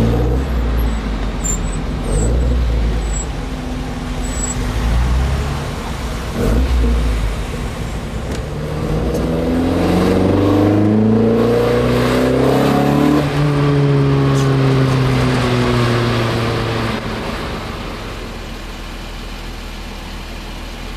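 Car engine heard from inside the moving car: about halfway through it pulls up through the revs in a few rising steps, then the revs fall away as the car slows, settling to a quieter steady running near the end.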